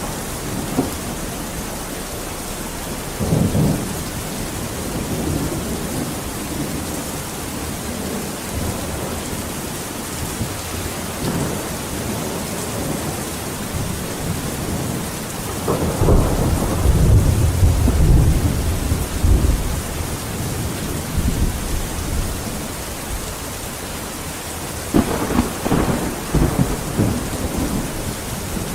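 Steady heavy rain with rolls of thunder: a brief rumble about three seconds in, a long deep roll from about 16 to 20 seconds, and another rumble near the end.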